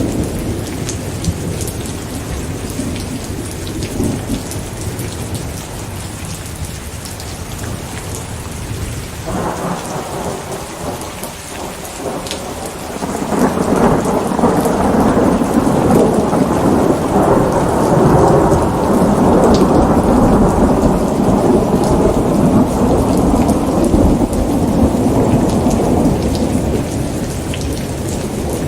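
Steady rain with fine drop patter, and a long roll of thunder that swells about halfway through, rumbles for over ten seconds, then eases off near the end.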